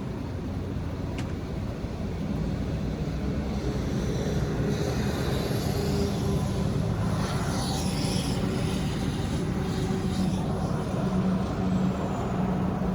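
Motor vehicle running, a steady low rumble of engine and road noise that grows a little louder over the first few seconds.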